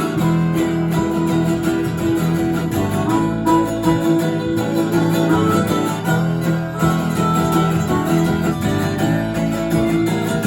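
Band music led by guitars, strummed and plucked, playing steadily with no singing.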